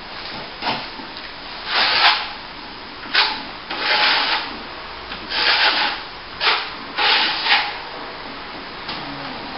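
Steel plastering trowel scraping top coat plaster across a plasterboard joint: about eight irregular swishing strokes.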